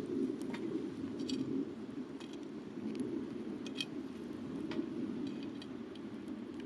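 Wood campfire burning, with sharp crackles and pops about once a second over a steady low rumble.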